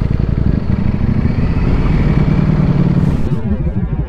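Ducati Streetfighter V4's V4 engine running at low revs in traffic, a dense low exhaust note with rapid even firing pulses. About three seconds in the note thins out and the pulses turn uneven and lumpier.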